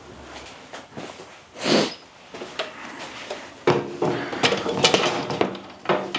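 Stuff being handled and moved in a cluttered workshop: a short scraping swell about two seconds in, then a run of clanks and knocks with brief ringing from about halfway.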